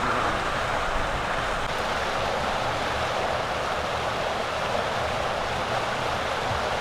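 Steady road and wind noise of a car being driven, with no distinct events.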